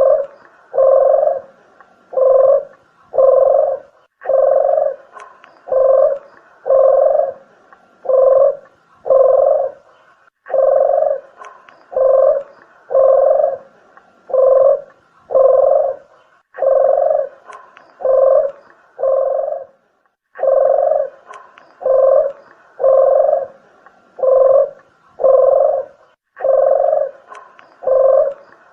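Deruk (island collared dove) cooing: phrases of about five or six low coos, each phrase followed by a short pause, repeating steadily.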